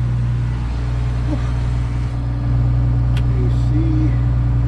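Case IH 2144 combine's diesel engine idling steadily, heard from inside the cab. The drone gets a little louder about two and a half seconds in, and there is a single click shortly after.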